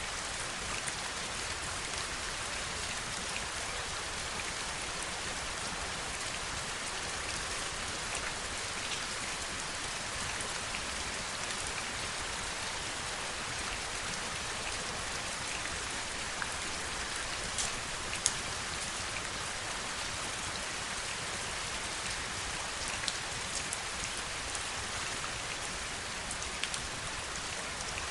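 Steady heavy rain falling, an even hiss of rain with a few sharper single drops ticking out of it, the clearest two about two-thirds of the way through.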